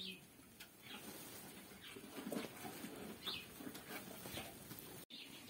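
Faint bird chirps: a few short, high calls spaced about a second apart over quiet background.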